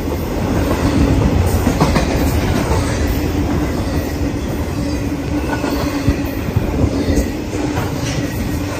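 Intermodal freight train passing on the near track, its wheels clacking steadily over the rail under a continuous rumble and a held hum.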